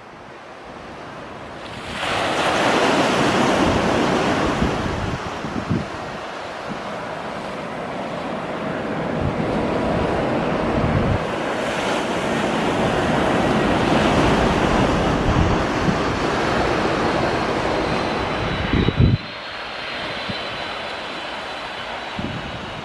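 Jet noise from a Boeing 747 landing: a steady rushing sound that swells about two seconds in and drops off sharply near the end, leaving a thin high whine. Wind buffets the microphone.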